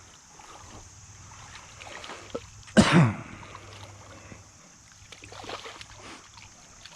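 A short, loud vocal sound from a person, a grunt-like throat clearing, about three seconds in, over quiet riverbank background with a steady high hiss and faint small noises.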